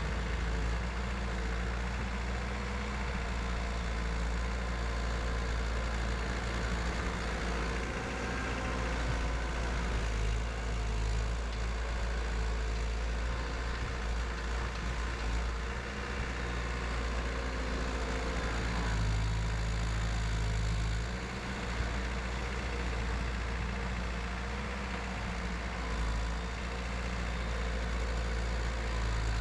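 Caterpillar 247 skid steer's four-cylinder Cat 3034 diesel engine running steadily, its note changing several times as the machine works.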